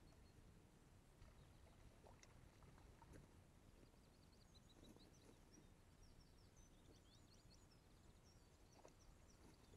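Near silence: faint outdoor ambience, with a run of faint, quick, high bird chirps about halfway through.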